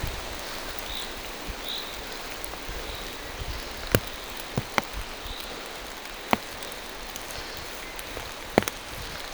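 Steady rain falling through the forest canopy, an even hiss, with a handful of sharp taps from single large drops landing close by, most of them in the second half.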